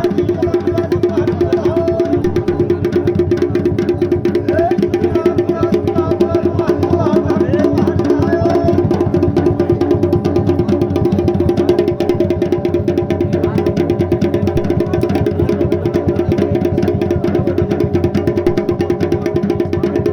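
Folk dance music: rapid, steady drumming over a sustained held tone.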